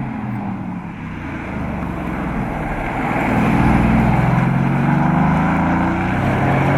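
Sports car engine and exhaust accelerating: the pitch climbs steadily and grows louder, peaks about halfway through, then falls away as the engine eases off.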